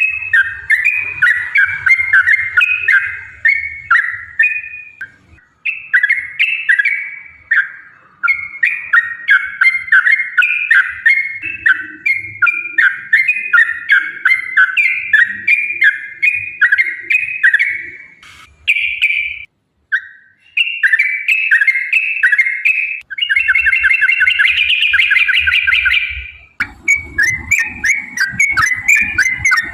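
Yellow-vented bulbul singing a long run of short, quick phrases repeated almost without pause, with a denser, faster trill near the end.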